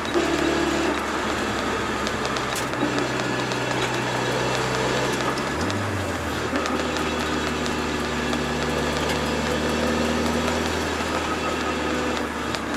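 Turbocharged Toyota AE86's engine running steadily at low revs, with a brief change in pitch about halfway through.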